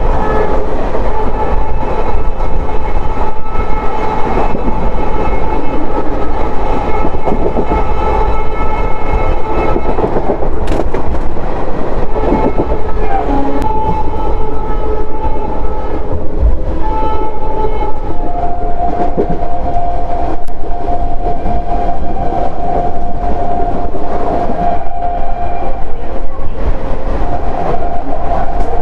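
Express train running at speed, heard from the door of an ICF coach: steady wheel and track rumble with some clickety-clack, under a train horn held almost continuously. About two-thirds of the way through, the horn shifts to a lower pitch, breaks briefly, then sounds again.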